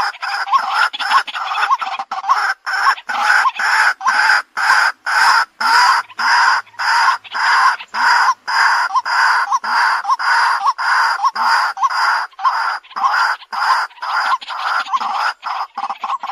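White-breasted waterhen calling over and over: short, repeated kwak notes at about two a second, in a steady rhythm.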